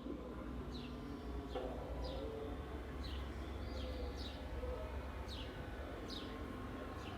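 Repeated short high chirps, each falling quickly in pitch, about once or twice a second, over a steady low rumble.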